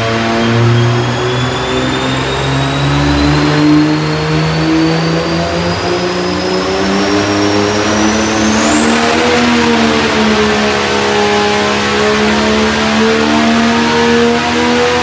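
Turbocharged Freedom Racing Engines COMP 6.8L diesel under full load on a dyno with nitrous, its pitch climbing steadily through a pull toward 4,200 rpm. A high whine rises with it and holds steady from about two-thirds of the way in.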